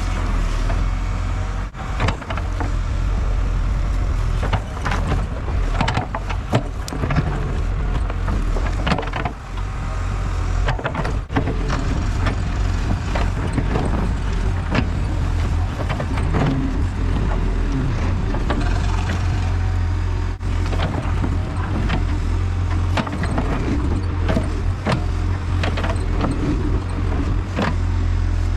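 Diesel excavator running steadily under load while its bucket digs at a tree stump's roots, with frequent short clanks and scrapes of the bucket teeth on roots and soil.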